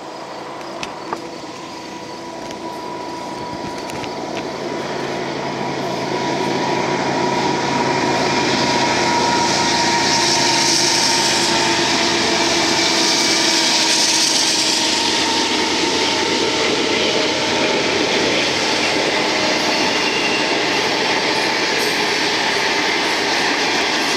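A Union Pacific fast intermodal train led by four GE diesel-electric locomotives approaches and passes. The engines grow louder over the first eight seconds or so, then run steadily past. Near the end the double-stack container cars roll by with steady wheel-on-rail noise.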